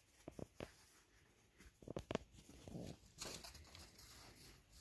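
Faint, scattered crackles and rustles of dry, rotted wood debris being disturbed, with a few sharp clicks and a longer rustle a little after three seconds in.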